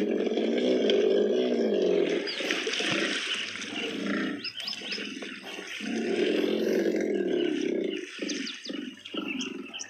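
Hippopotamus roaring: two long calls of about two seconds each, a few seconds apart, then shorter calls near the end.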